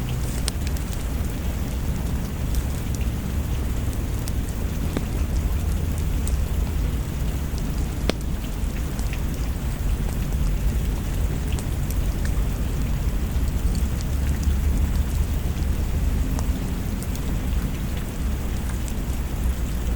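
Steady rain with a continuous low rumble of thunder underneath, a little louder about three-quarters of the way through, and scattered sharp ticks of drops.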